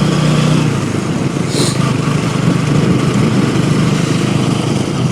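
Motorcycle engine running steadily while riding at road speed, with a brief high hiss about a second and a half in.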